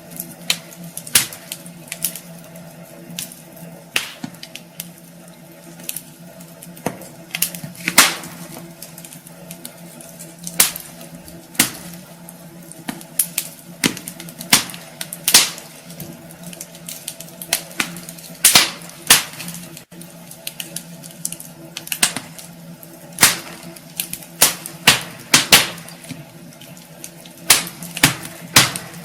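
Wood fire crackling in a fireplace, with sharp irregular pops and snaps a few times a second over a steady low hum.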